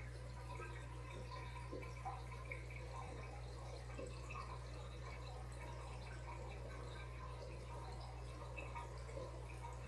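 Aquarium water trickling and dripping in a steady stream of small drips, over a constant low hum.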